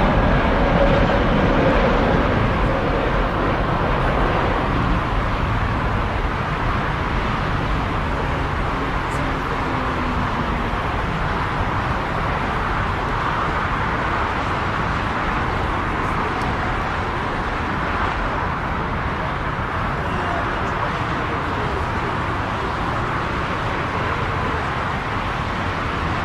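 Steady rushing noise of jet airliner engines, with a faint high whine that fades in the first few seconds. The noise eases slightly over the rest.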